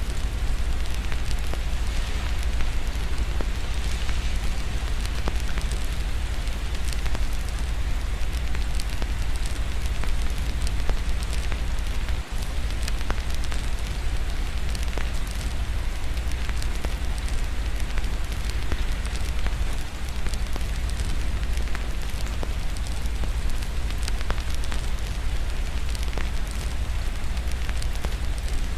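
Fireplace crackling, with frequent small pops over a steady hiss of gentle rain and a steady low rumble underneath.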